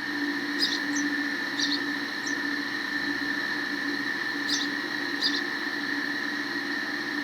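Sparrows giving short, high chirps, about six in all in two small clusters, over a steady background hum.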